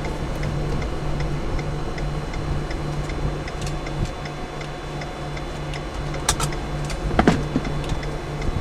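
Steady, rapid mechanical ticking, about three ticks a second, with two sharper clicks near the end.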